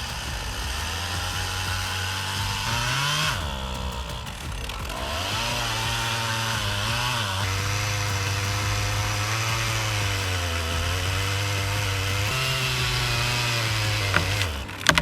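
Chainsaw engine running under load while cutting wood, holding a steady pitch. Its pitch climbs briefly about three seconds in and then dips. The engine stops shortly before the end, followed by a sharp knock.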